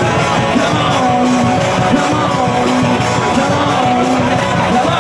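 Loud rock music with a lead singer holding and sliding between notes over a steady full-band backing.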